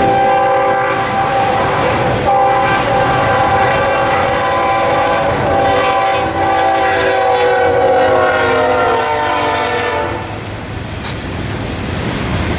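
Locomotive air horn sounding a long chord with a short break about two seconds in, its pitch sliding down in the second half as the train goes by. It cuts off near the end, leaving the rumble and clatter of the passing train.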